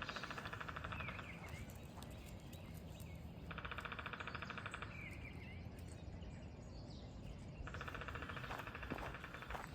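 Woodpecker drumming: three rapid rolls of strikes, each about a second and a half long and spaced a few seconds apart, with a few short bird chirps after the first two.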